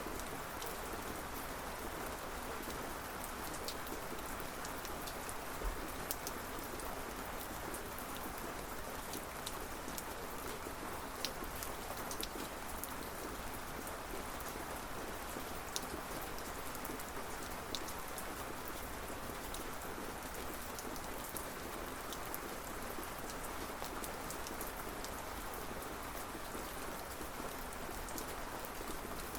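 Steady rainfall: an even hiss of rain with scattered sharper drops ticking on a surface.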